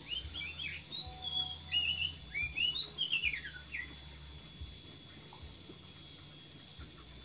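A songbird singing a quick, varied run of chirps for about four seconds, then stopping.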